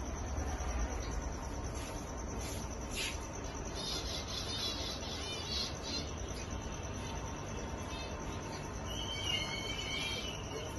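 Budgerigars chirping and warbling in two short bouts, over a steady high-pitched background hum.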